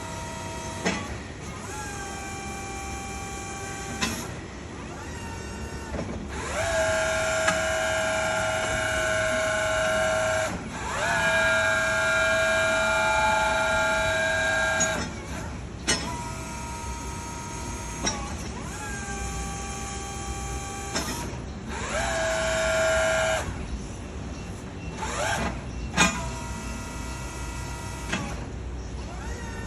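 Forklift hydraulic pump whining as the roll clamp and mast are worked, about eight times. Each run rises in pitch as the pump spins up, holds a steady tone for a few seconds, then stops, with sharp clicks between runs.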